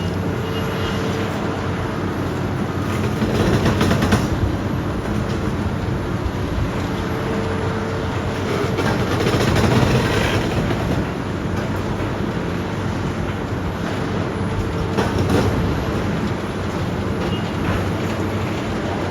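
Demolition machinery at work: a diesel engine running steadily under load, with crunching and clattering of broken building material that swells a few times.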